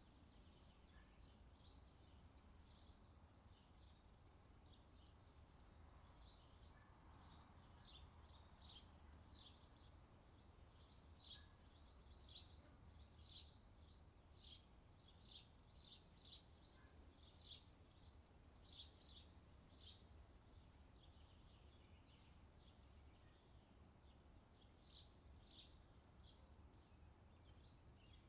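Faint chirping of small birds: short, high calls in quick, irregular runs, busiest in the middle and again near the end, over a faint low rumble of outdoor background noise.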